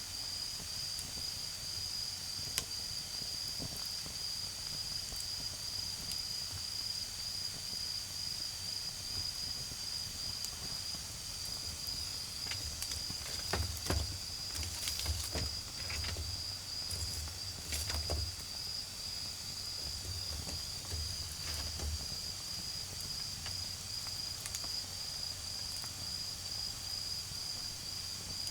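Autumn crickets and other night insects calling in a steady high-pitched trill. Between about 12 and 18 seconds in, a few sharp crackles come from the low wood fire, and some low rumbles come and go through the middle.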